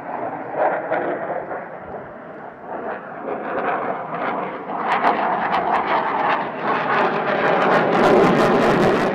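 An airplane flying past, its engine noise building to its loudest in the last few seconds, with a crackling edge and a faint steady tone.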